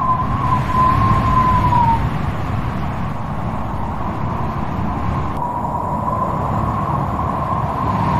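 Strong wind blowing with a steady low rumble and a thin, wavering howl on one pitch. The howl fades out about two seconds in and comes back a little past halfway.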